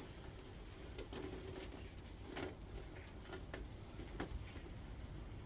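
A pigeon cooing faintly, with a few light clicks and rustles of copper coil wire being handled and unwound.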